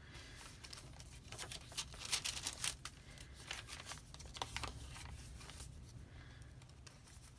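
Paper rustling and crinkling as the pages and tucked-in cards of a handmade junk journal are turned and handled, in short irregular crisp rustles.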